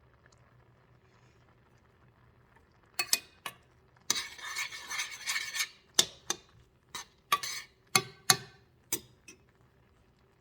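Cutlery clinking against dishes: about a dozen sharp clinks starting about three seconds in, with a stretch of scraping of about a second and a half between them.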